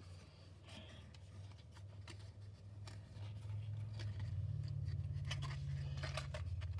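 Cardboard playset pieces being handled and fitted, with light scrapes and taps, over a steady low hum that grows louder about four seconds in.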